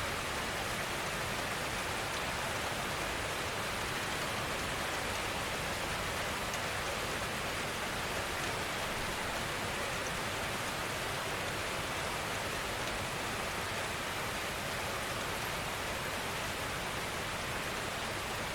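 Steady, gentle rainfall: a continuous even hiss of rain with no change in strength and only the odd faint drop tick.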